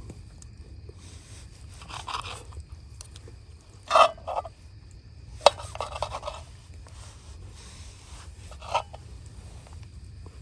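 Cutlery scraping on a plate during a meal: a few short scrapes and a click, the loudest about four seconds in.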